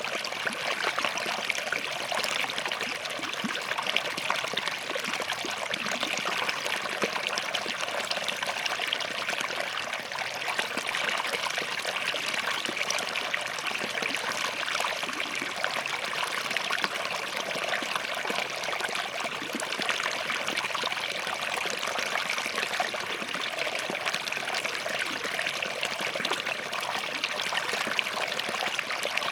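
Small forest stream running and trickling over rocks, a steady, even babble of water.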